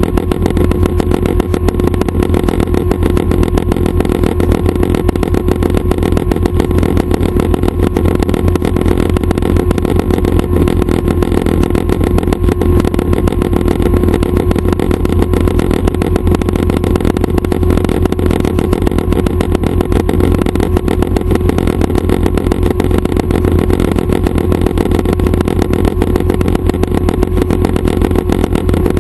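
Schweizer 269 light training helicopter running, its four-cylinder piston engine and rotors making a loud, steady drone with a constant hum and a rapid fine flutter that does not change.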